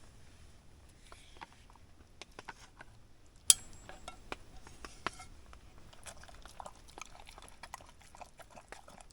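A dog eating, with small scattered chewing and crunching clicks, and one sharp metallic clink about three and a half seconds in.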